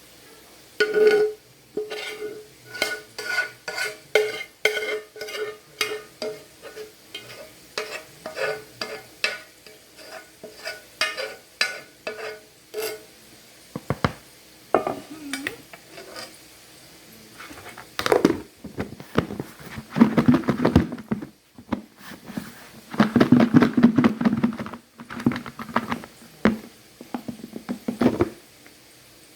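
A kitchen utensil knocking against cookware in steady ringing clinks, about two a second, for roughly the first dozen seconds. After a short lull, rougher clattering and scraping follows as food is stirred and mixed.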